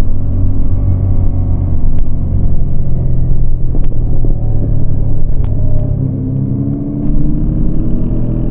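Yamaha MT-25's 249 cc parallel-twin engine running under throttle, heard from on the bike. About six seconds in the engine note eases off briefly, then rises in pitch again as it accelerates; a few brief clicks sound in between.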